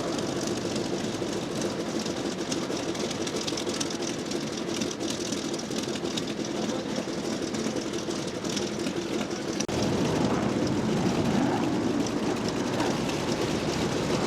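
Steady drone of propeller aircraft engines running, with an abrupt cut about ten seconds in, after which it is a little louder.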